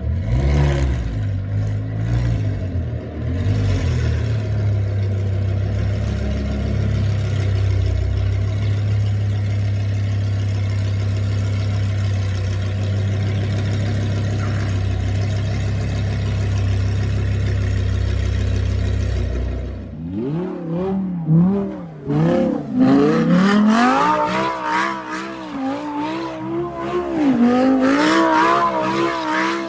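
Audi R8 V10 engine held at steady high revs, a deep unbroken drone, as its rear wheels spin in deep snow. About two-thirds of the way through, the sound changes abruptly to another Audi R8 engine revving up and down again and again as the car drifts in circles on snow.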